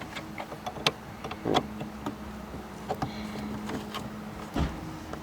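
Light clicks and knocks of metal shifter parts being handled as a short-throw shifter piece is worked into place, with a faint steady hum through the middle and a heavier thump near the end.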